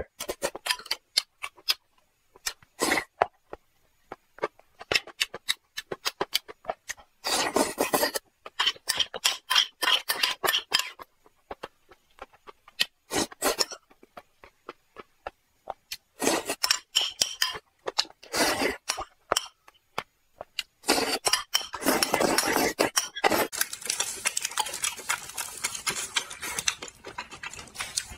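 Close-miked mukbang eating sounds: wet chewing and many sharp mouth clicks while eating a spicy rice dish with fish roe, in irregular bursts with short quiet gaps. A metal spoon clinks and scrapes against the bowl.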